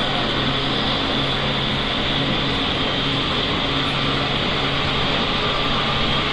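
Running sound inside a JR East Series E653 electric train at a steady speed: an even rush of rolling noise with a steady low hum.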